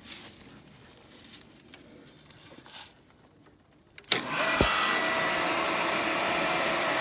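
Irrigation pump that has sat idle starting up suddenly about four seconds in, then running steadily with a loud, even whine.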